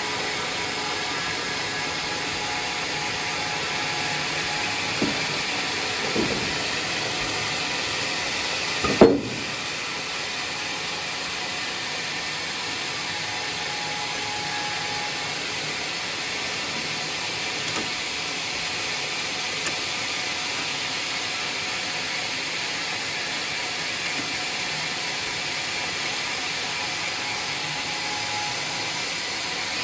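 Sawmill saw running through a log: a steady hissing noise, broken by a few short knocks, the loudest about nine seconds in.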